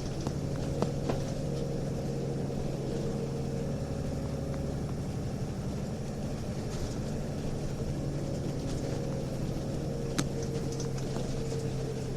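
Nissan Diesel UA city bus heard from inside the cabin, its diesel engine running with a steady drone, with a few sharp clicks about a second in and near the end. This bus is one whose running sound has changed from the UA272's normal sound, which the recordist counts as abnormal; such units often show torque-converter slip.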